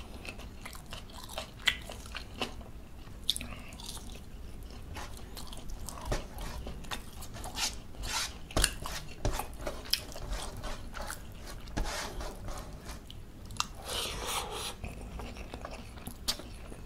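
Close-up eating sounds: chewing and crunching mouthfuls of rice and crisp buttermilk chicken eaten by hand, with irregular wet clicks and crackles.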